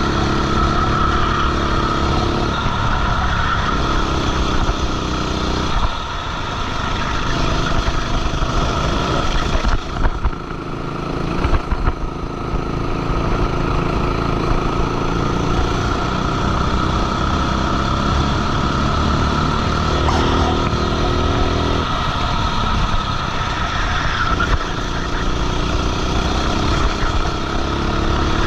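Racing kart's engine at race pace, heard from onboard, its pitch rising and falling with the throttle: it eases off several times, with a deeper dip in the middle, and pulls hard again each time.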